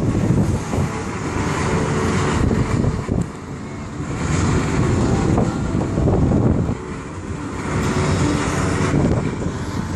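Gusty wind buffeting the microphone ahead of an approaching thunderstorm: a loud, unpitched low rumble that swells and eases every few seconds.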